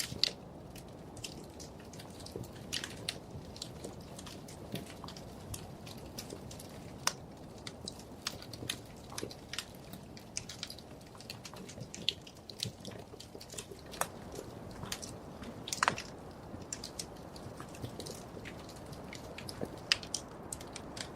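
Wood fire crackling in a fireplace: irregular sharp pops and snaps over a low steady rush of the flames, with a few louder pops.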